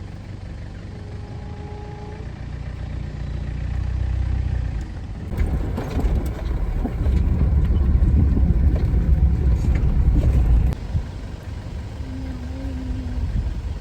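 Safari jeep engine running, getting louder over the first few seconds, then a louder, rougher rumble with rattles and knocks as it drives for several seconds, easing off near the end.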